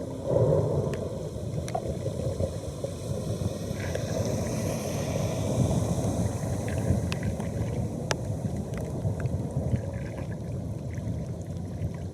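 Floodwater pouring and churning down a storm drain: a steady low rush that swells about half a second in, with a few faint sharp clicks.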